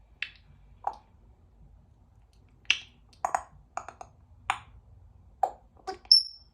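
Congo African grey parrot making a string of about ten sharp clicks and pops at irregular intervals, then a short high whistle near the end.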